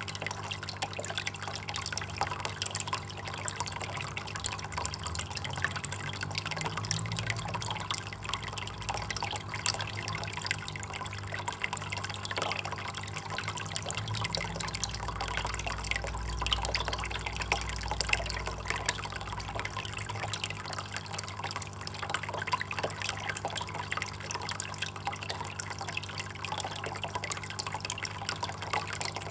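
Water trickling and splashing steadily, with many small drips, over a faint low hum.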